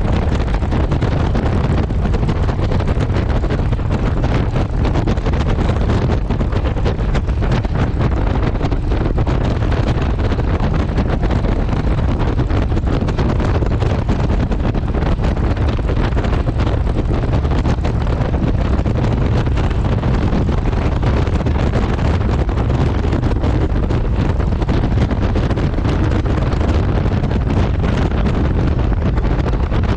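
Steady wind noise buffeting the microphone on a moving motorcycle, with the motorcycle's running underneath.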